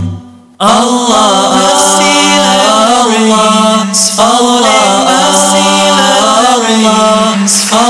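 A nasheed sung without instruments: a voice chanting long held notes that slide in pitch, coming in after a brief break of under a second.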